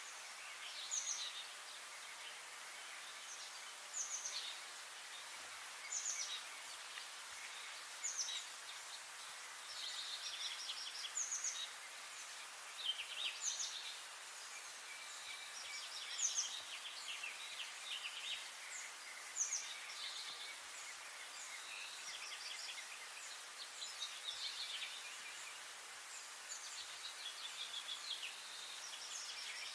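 Birds calling over a steady hiss: short high chirps that slide downward, repeating about every two seconds, with busier trills between them.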